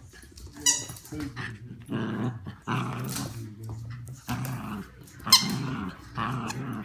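Dog growling in rough bouts, with two sharp high-pitched yelps, one under a second in and a louder one about five seconds in.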